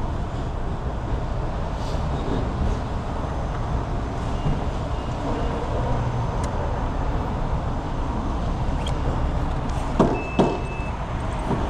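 Steady running and road noise of a truck on the move, with two short knocks about ten seconds in.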